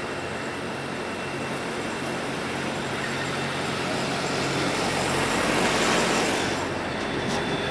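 Double-stack intermodal freight train rolling past below, a steady rumble and rush of wheels on rail that swells louder about five to six seconds in.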